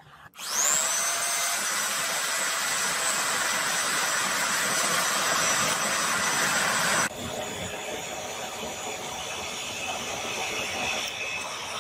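A forge's air blower or burner spinning up about half a second in, then running with a loud, steady hiss and a high whine while the clay-coated katana blade is heated for hardening. About seven seconds in it cuts abruptly to a quieter, steady hiss.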